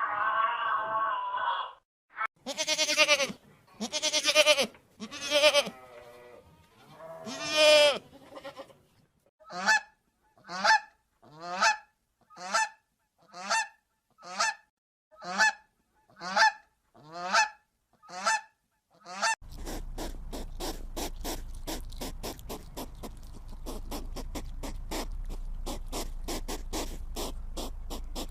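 Geese honking: a few long, loud honks, then a steady run of shorter honks about one a second. About two-thirds of the way through, this gives way to a fast train of clicks over a low hum.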